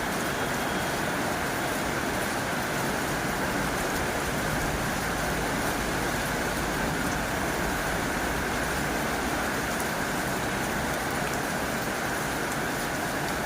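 Heavy rain drumming steadily on a tin roof, an even hiss with no breaks.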